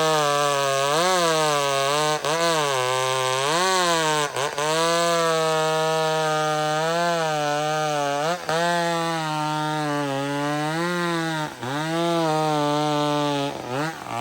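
Vintage McCulloch Super Pro 70 two-stroke chainsaw, hot-rodded with a modified intake, running at high revs while cutting through wood. Its pitch sags under load and recovers over and over, with brief drops every couple of seconds, and near the end the revs fall off sharply.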